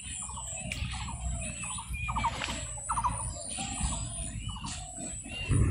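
Birds calling: a short rattling call repeats about twice a second, with higher whistled notes in between, over a low wind rumble. A low thump comes near the end.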